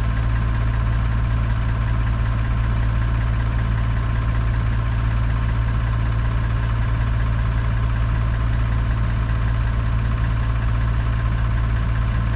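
Large engine idling steadily: a deep, even running sound that holds the same speed throughout.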